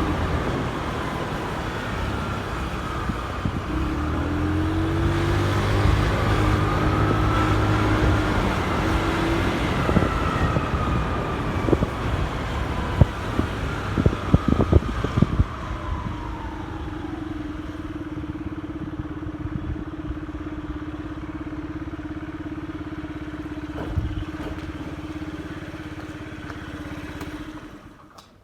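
Motorcycle engine running with its pitch rising and falling, a few sharp clicks and knocks, then idling steadily before it cuts off near the end.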